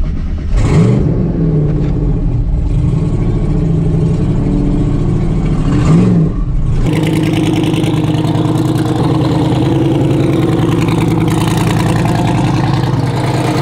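Twin-turbo LS V8 street truck engine running at low speed, with two brief rev blips, about a second in and about six seconds in.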